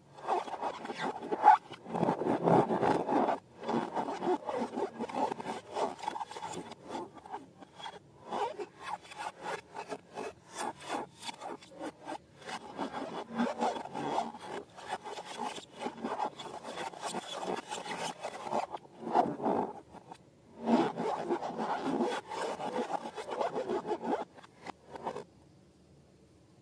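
Slime being squished and worked by hand: a dense run of sticky crackles, clicks and rubbing, louder in patches, that stops near the end.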